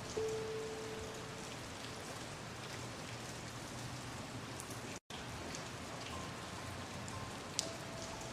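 Steady rain falling, with a few sharp drop ticks, under a soft held musical note just after the start and faint notes again near the end. The sound cuts out completely for an instant about five seconds in.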